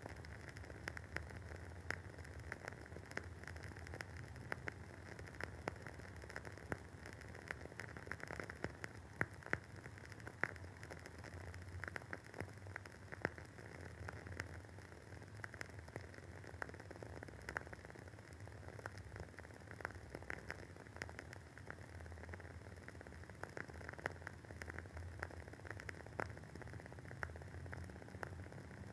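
Wooden candle wick burning with an irregular run of small soft crackles and pops over a faint steady hiss, a few pops louder than the rest.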